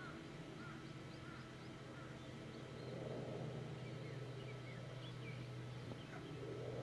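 Small birds chirping in short, scattered high calls over a steady low hum. A soft rushing noise swells about three seconds in.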